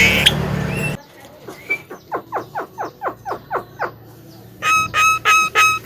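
Javan myna calling: a run of about ten quick falling whistled notes, about three a second, then from about five seconds in a louder, harsher note repeated about twice a second. Before that, a noisy passage cuts off abruptly about a second in.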